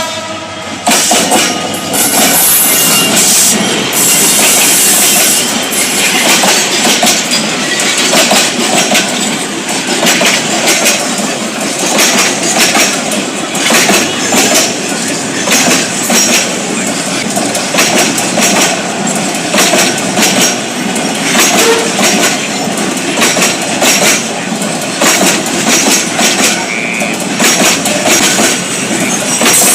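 Freight train wagons rolling past, with a steady rattle and regular clickety-clack of wheels crossing rail joints that swells every second or two.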